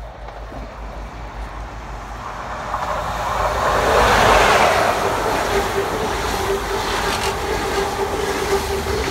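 A CrossCountry HST (InterCity 125) passing at speed. The Class 43 diesel power car's engine and wheels build to a peak about four seconds in as it goes by, then the coaches roll past with steady wheel-on-rail noise and a held tone.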